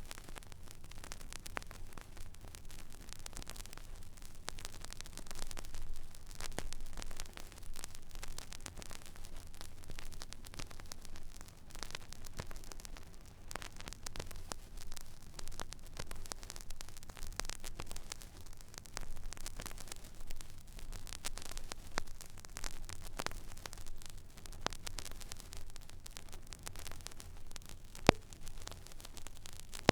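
Stylus riding the empty groove of a vinyl record: steady surface noise with scattered crackle and small clicks over a low rumble and hum, and one sharper pop near the end.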